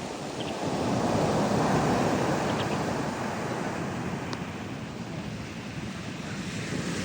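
Ocean surf breaking and washing ashore, swelling and easing.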